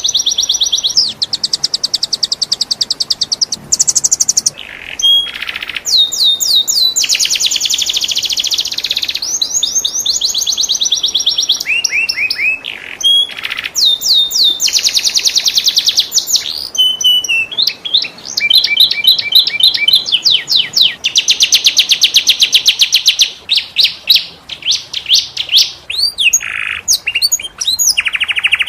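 Domestic canary singing a long, unbroken song of fast rolling trills that switches to a new phrase every second or two, with a few sweeping whistled notes between the rolls.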